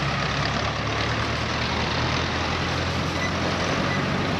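A large engine running at a steady low hum under a continuous rush of outdoor noise.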